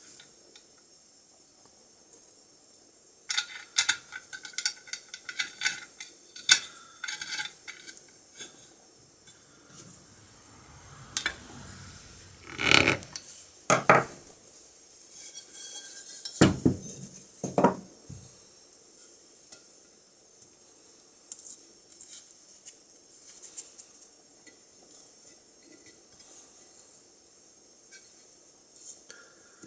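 Restored metal parts of an antique clothes iron clinking and knocking as they are handled and set down: a run of quick light clinks, then a few louder knocks around the middle, then only occasional faint ticks.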